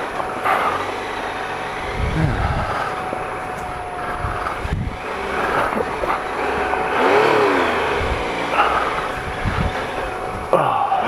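Triumph Explorer XC's 1215cc three-cylinder engine running at low speed, its revs rising and falling as the motorcycle picks its way through deep muddy ruts on road tyres, with wind noise on the helmet-mounted camera.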